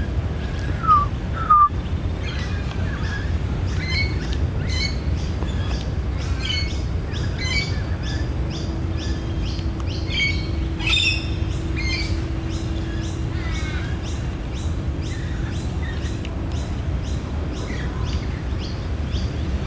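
Australian magpie calling in a long run of short, repeated notes, over a steady low background rumble.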